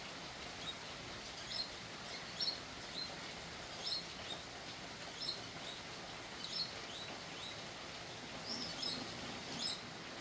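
Small bird chirping: short, high chirps, each a quick pitch sweep, repeated once or twice a second over a faint steady hiss.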